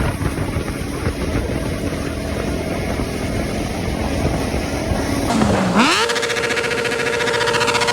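Honda CBR600 sportbike's inline-four engine running at freeway speed under heavy wind rush. About five seconds in, the revs dip briefly, then climb steeply to a high, steady whine as the throttle is held open.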